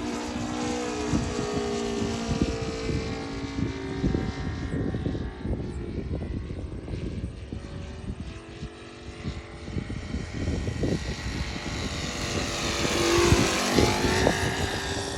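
The ASP 400 radial glow engine of an RC Yak 55 purring steadily in flight. Its pitch falls as the plane passes near the start, and it grows louder, rising then falling again, as it comes by near the end.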